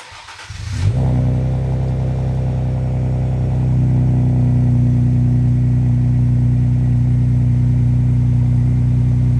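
Exhaust of a Ford Explorer fitted with free-flowing downpipes and a 2.5-inch Thermal turbo-back exhaust, running loud and steady. It comes in about a second in, then holds one even note with no revving.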